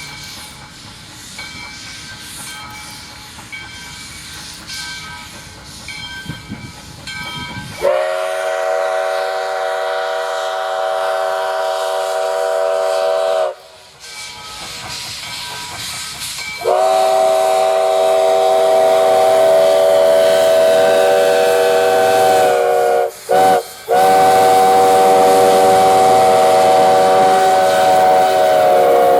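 Steam locomotive No. 148's chime whistle blowing the long-long-short-long grade-crossing signal: two long blasts, a short toot and a final long blast, each a steady chord of several notes. Before the whistle, about the first eight seconds hold quieter train noise.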